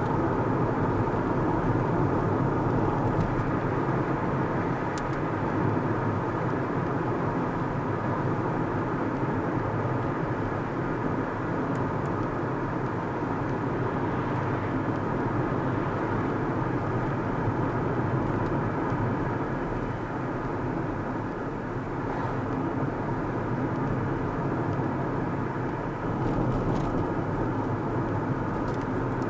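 Steady road noise of a car being driven, heard from inside the cabin: tyre rumble on the road with the engine humming underneath, even throughout apart from a slight dip about three quarters of the way through.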